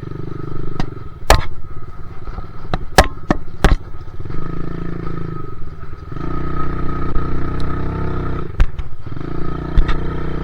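Dirt bike engine running under way, revving up and easing off several times. Sharp knocks and clacks come in the first few seconds.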